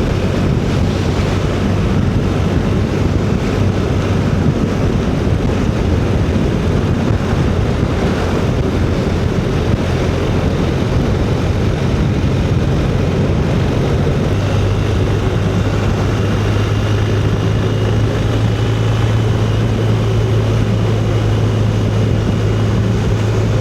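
Motorcycle riding along a road: steady engine drone with wind rush. The engine note settles into a lower, steadier drone about fourteen seconds in.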